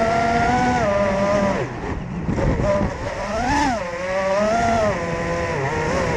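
FPV racing quadcopter's brushless motors whining, the pitch rising and falling with the throttle. It drops away sharply just under two seconds in, then climbs again to a peak a little after three and a half seconds.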